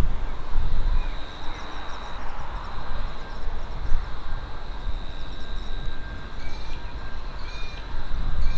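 A train running past a station, a low rumble that dies down about half a second in, leaving a steady high whine. A few short chirps come about once a second near the end.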